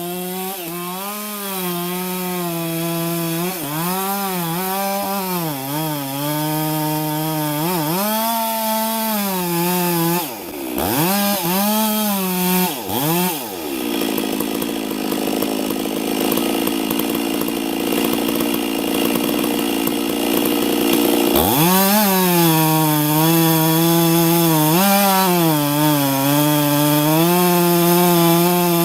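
Two-stroke chainsaw felling a tree, its engine revving up and down over and over as it cuts. About halfway through, a rasping, noisy stretch of several seconds replaces the clear engine note, then the revving comes back.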